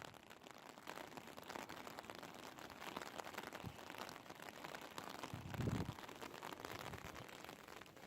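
Light rain pattering as many small ticks over a steady hiss, with one dull low thump about five and a half seconds in.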